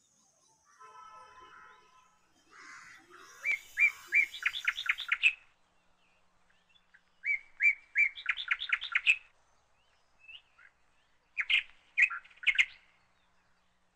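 A small bird singing: three runs of quick, repeated chirping notes, each about a second and a half long, a few seconds apart.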